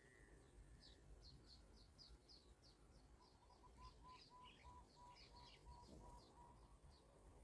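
Faint bird chirping: a fast run of short, high chirps, about four a second. Through the middle it is joined by a series of evenly spaced lower piping notes.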